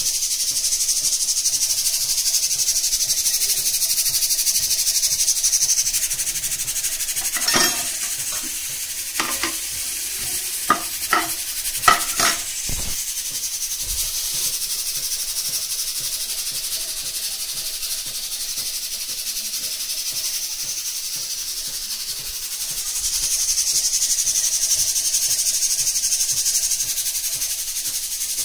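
Food frying in a pan with a steady, high sizzle, a little louder at the start and again near the end. About a third of the way in come a handful of sharp clinks, like a spoon or spatula stirring against the pan.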